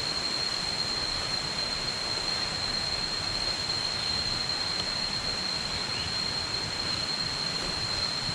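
Steady jungle ambience: an even rush of flowing water from the nearby river and waterfall, with a continuous high-pitched insect drone held on one note.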